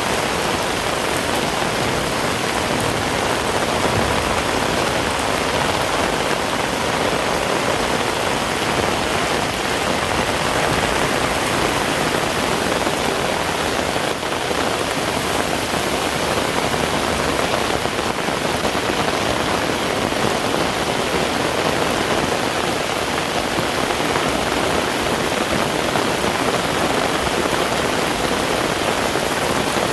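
Heavy rain falling steadily in a constant, even hiss.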